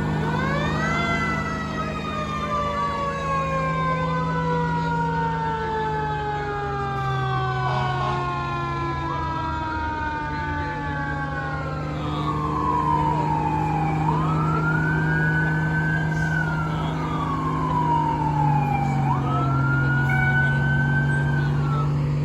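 Fire truck sirens sounding over and over, several at once: each rises quickly and then slides slowly down in pitch over several seconds, over a steady low drone.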